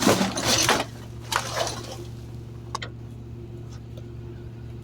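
Garbage truck running with a steady low hum. Noisy rustling bursts of trash come in the first second and a half, and a single sharp click follows near three seconds.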